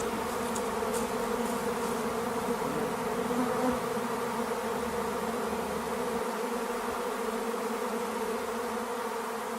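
A swarm of flying insects buzzing around their nest: a dense, steady drone.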